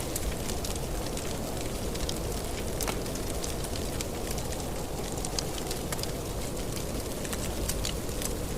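Wood fire in a fireplace crackling, with frequent sharp pops and snaps over a steady low rushing rumble.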